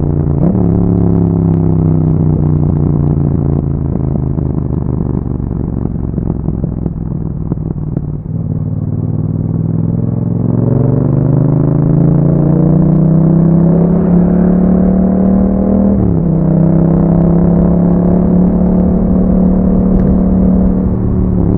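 2021 Yamaha MT-07's 689 cc parallel-twin through an Akrapovic exhaust, heard while riding. The engine note falls slowly as the bike slows for the first several seconds, then rises steadily under acceleration. About two-thirds of the way in it drops sharply at an upshift and then holds a steady pitch.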